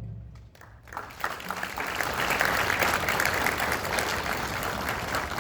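Audience applauding, starting about a second in after a short silence and holding steady.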